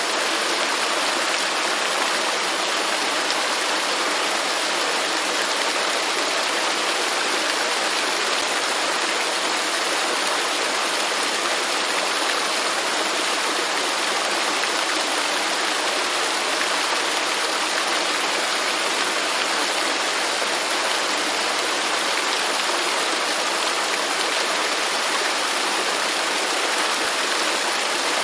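Waterfall rushing steadily, a constant even hiss of falling water with little low rumble.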